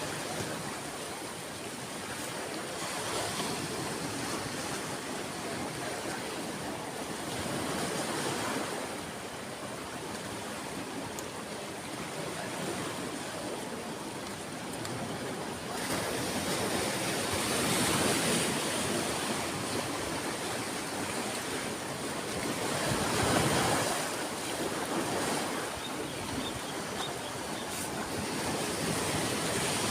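Ocean waves breaking and washing up on a beach, a continuous surf hiss that swells and eases as each wave comes in, with stronger surges about two-thirds of the way through.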